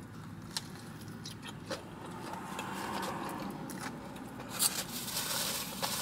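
Close-up chewing of a bite of a fried spicy chicken sandwich: soft mouth noises with a few small clicks. From about four and a half seconds in comes a crinkling of the sandwich's paper wrapper.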